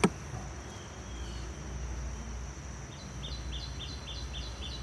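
Outdoor insect chorus: a steady high cricket-like trill over a low hum, with a sharp click right at the start. From about three seconds in, a bird calls a quick series of short falling chirps, about four a second.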